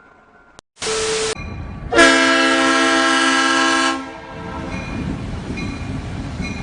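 Train horn sounding a short blast, then a long blast of about two seconds that stops abruptly, followed by low rumbling noise.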